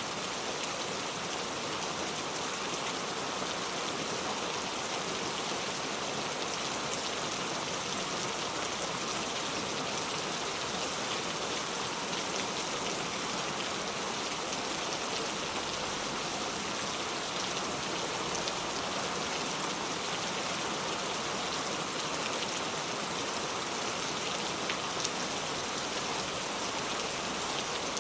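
Steady rainfall, an even hiss of rain with scattered individual drops ticking on surfaces.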